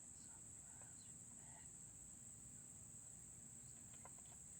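Faint, steady, high-pitched chirring of crickets, with a few faint short chirps over it.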